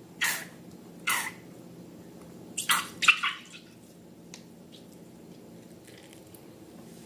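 Slime being squeezed and worked by hand, giving short wet squelching pops: two single pops, then a quick cluster about three seconds in, followed by a few faint clicks.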